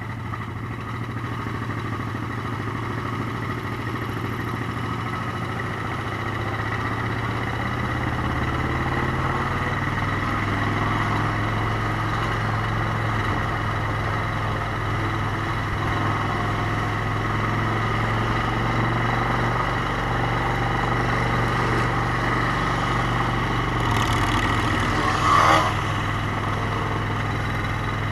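Motorcycle engine running steadily under way, a constant low drone that shifts slightly in pitch about a third of the way through. A brief louder sound stands out about three seconds before the end.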